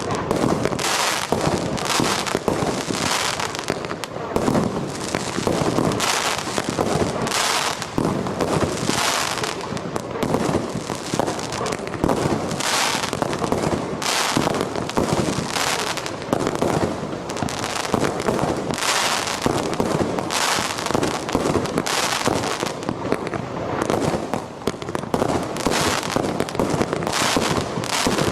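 Star Fireworks 'Apocalypse' firework going off in a continuous volley: shot after shot, one to two a second, over steady crackling, without a break.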